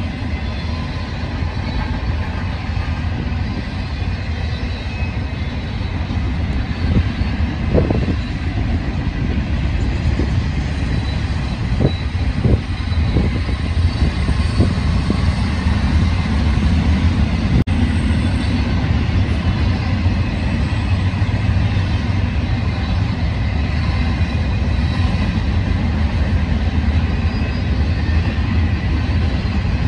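Union Pacific double-stack intermodal container cars rolling past: a steady low rumble of steel wheels on rail, with a few short clunks around eight and twelve seconds in.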